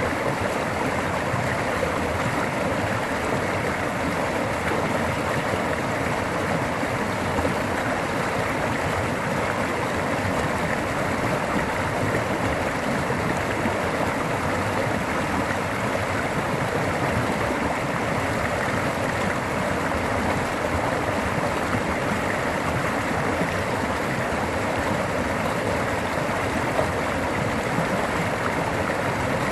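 Flash-flood water rushing past in a steady, unbroken torrent, with no let-up or change.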